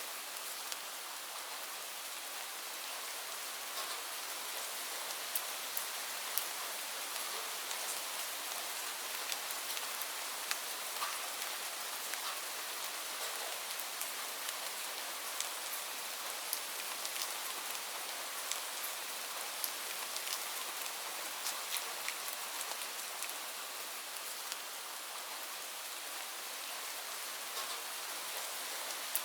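Steady rainfall, a continuous hiss with many individual drops ticking and pattering on a surface throughout.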